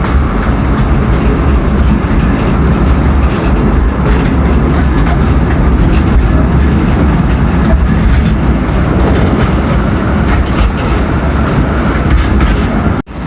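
Narrow-gauge forest railway train running steadily along the track, with a continuous low rumble.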